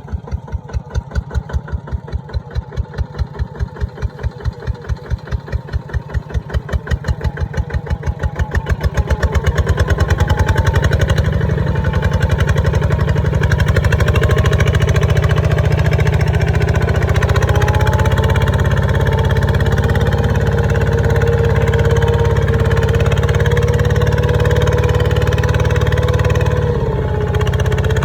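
Kubota ZT140 single-cylinder diesel engine running. It starts as slow, separate thumps about three a second and speeds up over the first ten seconds into a steady, fast run.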